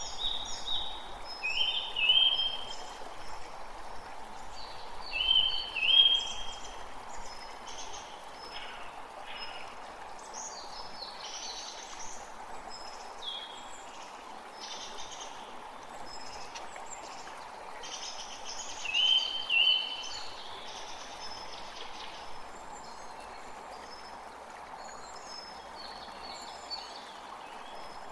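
A forest creek running with a steady rush of water, with songbirds singing over it in short chirping phrases; the loudest phrases come about two, six and nineteen seconds in.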